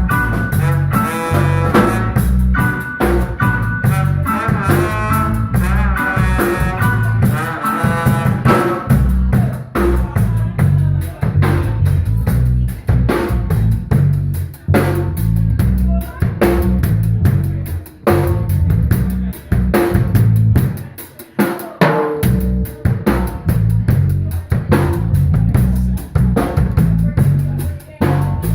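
Live instrumental band playing. Melody lines ride over the drums for the first several seconds, then the drum kit takes over with busy snare, rimshots and bass drum, easing off briefly past the two-thirds mark before coming back in.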